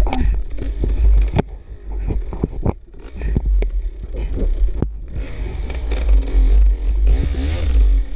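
Off-road dirt bike engine revving up and down while riding a rough trail, with knocks and clatter from the bike over the ground. The throttle drops off about a second and a half in and picks up again after a couple of seconds. Heavy wind rumble on the microphone underlies it.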